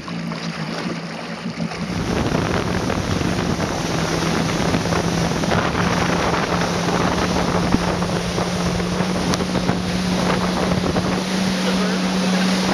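Jet ski engine running under way, a steady hum that gets louder about two seconds in and climbs slightly in pitch as it speeds up, with wind rushing over the microphone.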